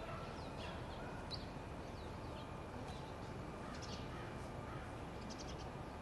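Birds chirping in short, scattered calls, with a quick run of chirps about five seconds in, over a steady low outdoor background rumble.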